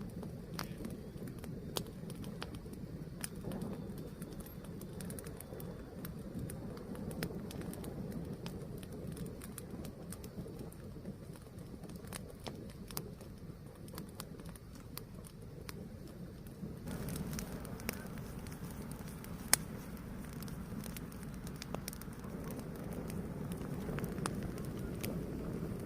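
Fire burning with a steady low rumble and scattered sharp crackles, one louder pop about twenty seconds in.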